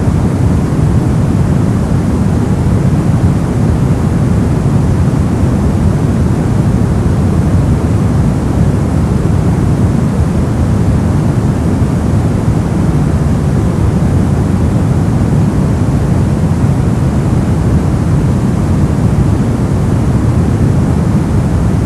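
Brown noise: a steady, unchanging deep rushing hiss, its energy heaviest in the low end and falling away toward the highs.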